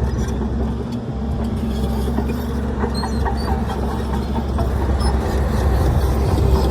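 Heavy diesel engine of earthmoving machinery running steadily, a low drone with scattered metallic clicks and clanks over it.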